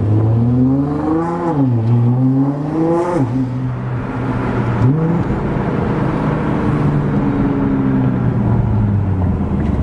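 Car engine revving: the pitch climbs and falls back about a second and a half in, climbs again and drops sharply at about three seconds, gives a short blip near five seconds, then runs steadily.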